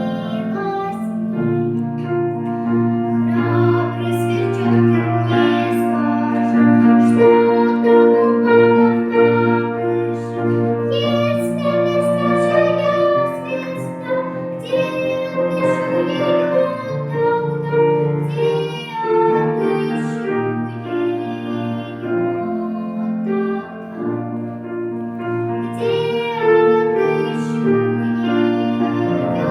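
A child singing a song with keyboard accompaniment.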